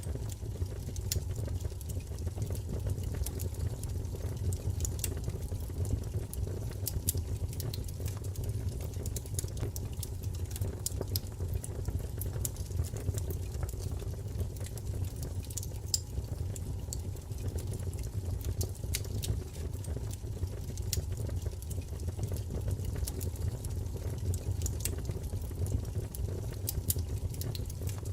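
Wood fire burning in a fireplace: a steady low rumble with frequent small crackles and pops scattered irregularly throughout.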